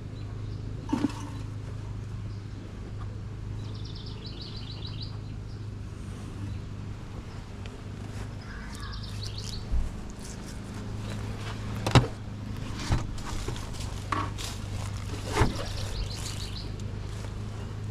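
A small bird trilling in short repeated phrases three times, over a steady low hum. Several sharp knocks and clicks sound now and then, the loudest about twelve seconds in.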